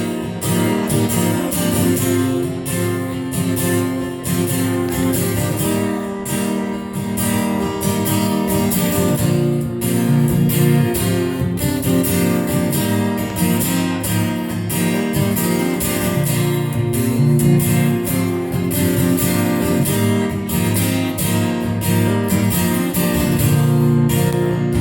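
Acoustic guitar strummed steadily through an instrumental break between verses of a live folk song, with no singing.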